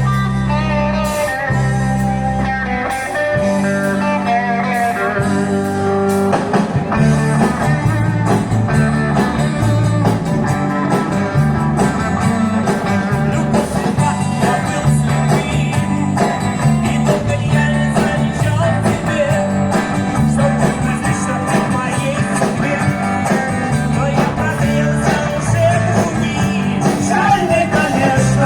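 A live band playing a rock-style song, with a stepping bass line under the melody.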